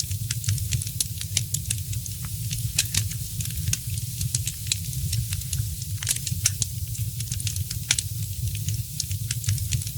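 Wood fire in a fireplace crackling: frequent sharp pops and snaps, several a second, over a steady low rumble.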